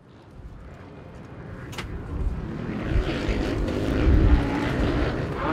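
An engine running, growing steadily louder as it fades in from silence, with a brief rising note near the end.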